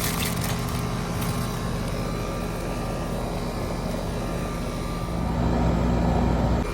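Lennox split-system outdoor condenser unit running, a steady hum with fan rush. It grows louder about five seconds in, then drops back just before the end.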